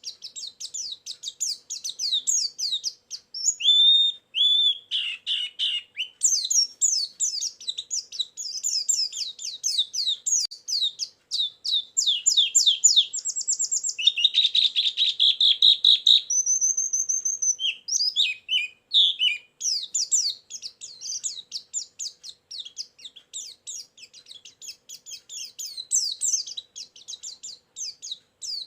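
White-eye (pleci) song played as a lure and training track: long, fast runs of short, high, twittering notes, many sliding downward, with a dense burst of rapid notes about halfway through and a short, thin, steady whistle just after.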